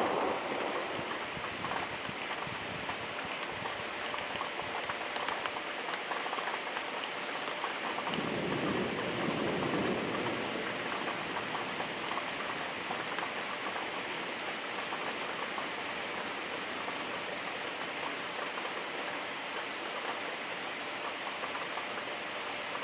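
Steady rain falling, an even hiss, with a brief deeper swell of sound lasting about two seconds, about eight seconds in.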